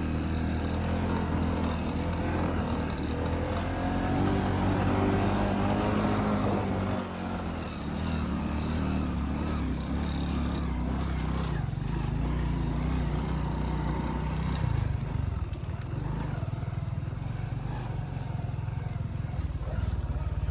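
Motorcycle engine running under way, its note shifting with the throttle and dipping about a third of the way through.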